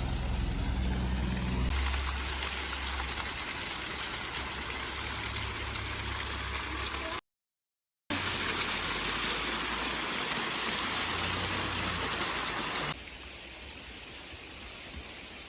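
Creek water rushing steadily, in a few pieces joined by abrupt cuts: a short total dropout about seven seconds in, and noticeably quieter near the end.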